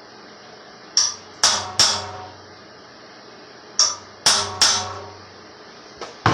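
Hammer blows on metal, struck in two quick sets of three, each hit ringing briefly, over a steady low hum.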